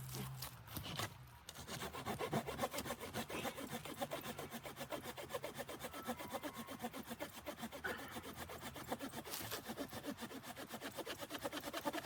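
Hand saw cutting wood: rapid, even rasping strokes, about four or five a second, starting about a second and a half in.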